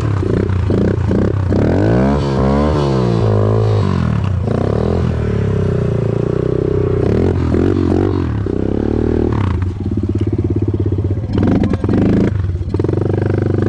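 Dirt bike engine revving up and down again and again under throttle on a hill climb, with a steadier stretch about ten seconds in before more throttle blips.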